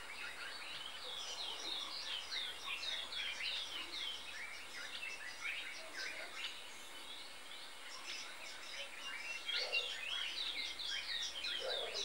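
Small birds chirping and twittering in a busy chorus of short, quickly repeated falling notes.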